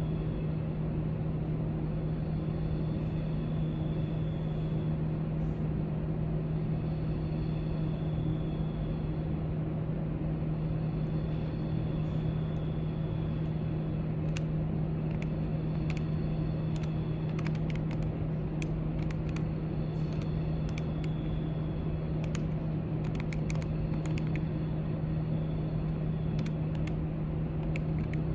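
Steady low drone of library background noise, with one strong humming tone throughout. From about halfway through, faint light clicks come scattered over it, a few at a time.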